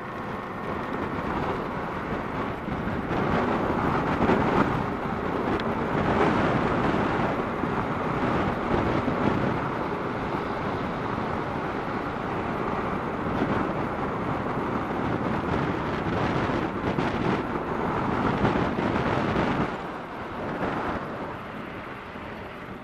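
Wind buffeting the microphone of a Kawasaki KLR650 motorcycle riding at speed in high wind and rain, with the bike's road noise underneath; the noise eases a little near the end.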